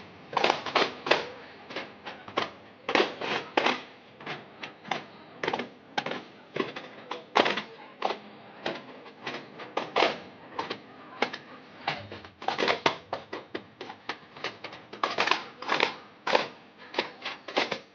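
Daf frame drums beaten by hand in daff muttu, sharp slaps coming several a second in an uneven rhythm with louder accented strokes.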